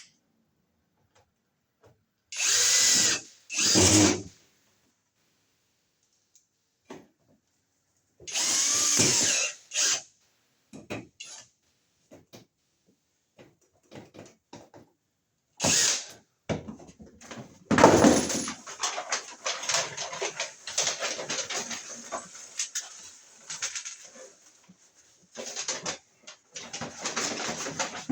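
Power drill driving screws in several short bursts, then a longer, uneven run through the second half, fastening a wiremold outlet box to the wall.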